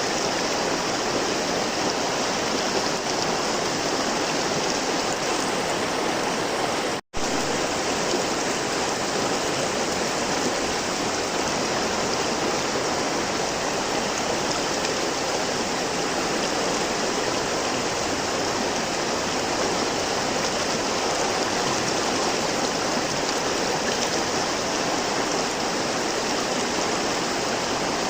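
River water flowing in a steady rush, cut off for a split second about seven seconds in before resuming.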